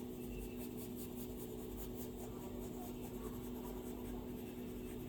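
Stylus strokes scratching and tapping on an iPad screen while drawing, over a steady low hum.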